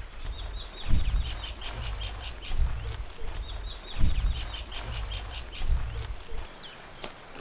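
A songbird sings the same quick run of high chirps twice, about three seconds apart. Under it is a low rumble with a few thumps, which stops about six seconds in.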